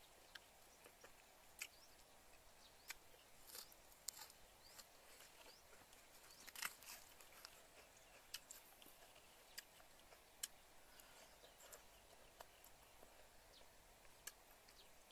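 Faint eating sounds: chewing with irregular small mouth smacks and clicks, over a quiet outdoor background.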